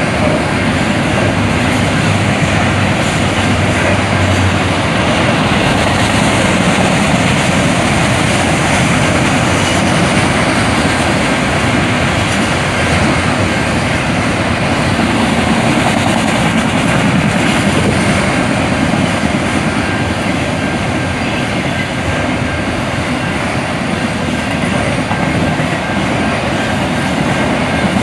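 Freight train cars rolling past a crossing, a loud, steady rolling noise of wheels on rail that holds at one level throughout.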